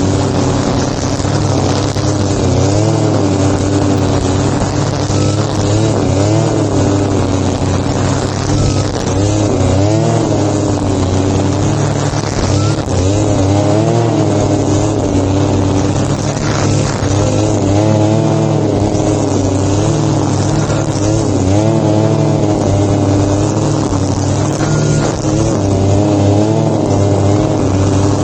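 Small engine of a grass-cutting machine running continuously under load, its pitch wavering up and down every second or two as it cuts.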